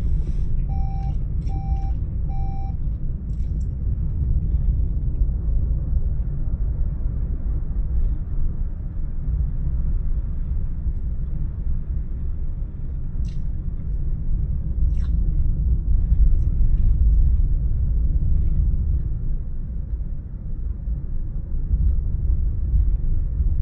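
Steady low rumble of a car on the move, road and engine noise heard from inside the cabin. Three short electronic beeps sound at an even pace within the first three seconds.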